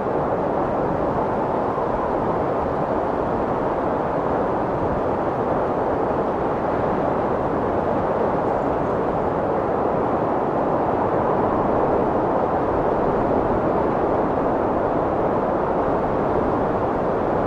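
Strong wind blowing steadily, an even rushing noise without gusts or breaks.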